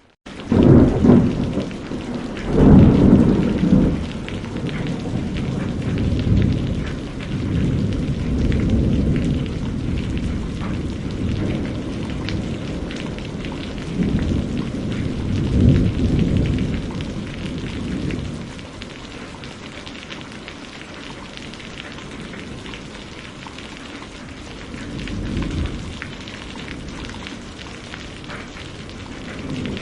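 Thunderstorm: steady rain with rolling thunder, low rumbles swelling several times, loudest in the first few seconds and again around the middle. The sound cuts in suddenly at the start.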